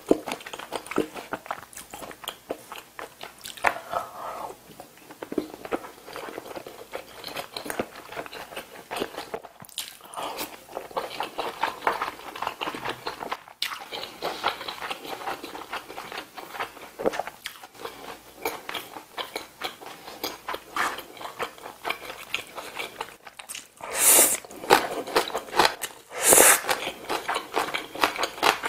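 Close-miked chewing and mouth sounds of a person eating braised kimchi stew and rice, a steady run of small wet clicks and smacks. Two louder, hissy sounds come a few seconds before the end.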